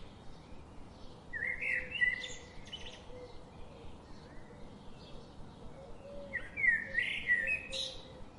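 A songbird singing two short, warbling phrases about five seconds apart, over faint steady background noise.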